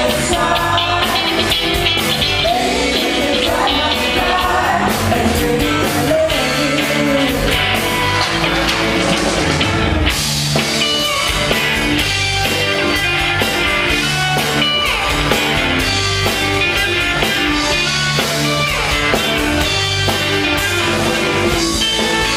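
Live rock band playing with a steady drum beat, electric guitar and bass, with some singing.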